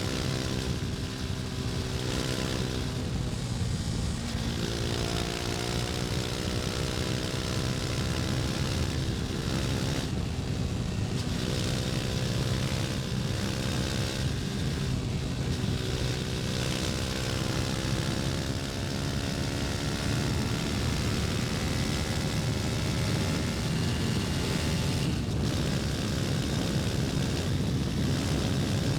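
KTM Duke 250's single-cylinder four-stroke engine running under way, its pitch climbing slowly and dropping back briefly a few times before holding fairly steady, over a steady rushing noise.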